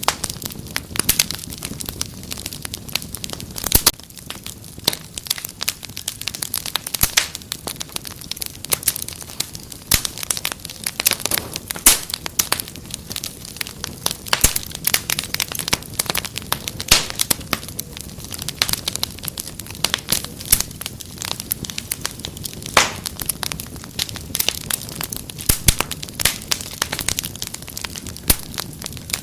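Wood fire crackling: many irregular sharp pops and snaps over a low steady hiss.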